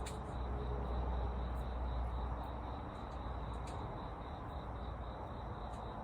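Insects, likely crickets, trilling steadily on one high note over an even outdoor hiss, with a low rumble in the first half and a few faint clicks.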